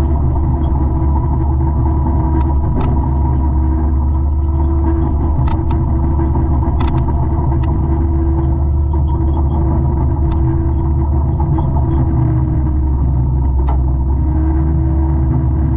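Diesel engine and drum of a 200-horsepower forestry mulcher running steadily, a deep, even drone, with a few sharp ticks over it.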